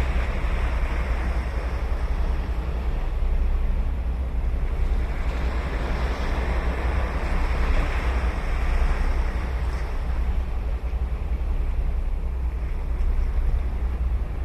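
Ocean surf breaking and washing up the beach in a continuous wash that swells louder about halfway through, over a steady low rumble of wind on the microphone.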